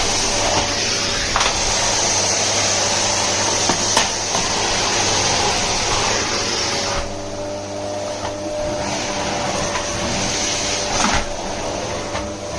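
Kärcher VC 2 700 W bagged vacuum cleaner running steadily, a rushing hiss over a motor hum, with a few brief knocks as the nozzle is handled. About halfway through, the hiss turns duller.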